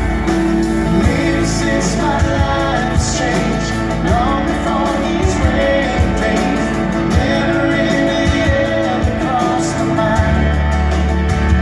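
Live Christian rock worship band playing, with guitars and a male lead vocal singing.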